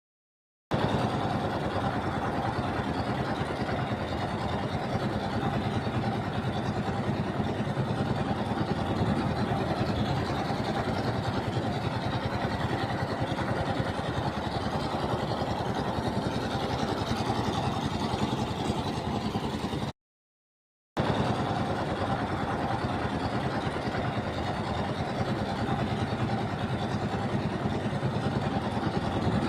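Ship's engine running steadily, a dense mechanical drone mixed with a rushing hiss. It starts just under a second in and drops out for about a second about two-thirds of the way through, then carries on unchanged.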